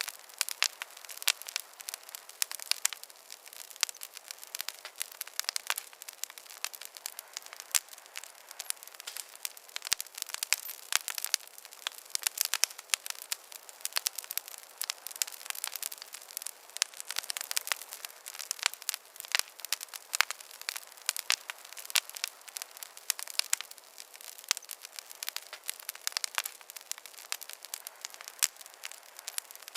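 Wood fire crackling in a fireplace: a dense, irregular run of sharp pops and snaps over a steady hiss, with no low rumble.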